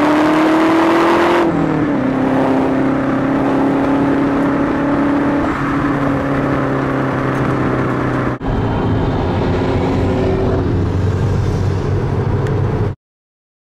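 2009 Mazdaspeed 3's turbocharged 2.3-litre four-cylinder running through a Magnaflow exhaust, a steady engine drone whose pitch drifts only slightly. It breaks off briefly about eight seconds in and cuts off suddenly near the end.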